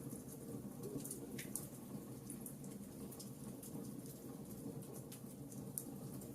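Wood fire burning in a fireplace: irregular small crackles and pops over a steady low rumble from the flames.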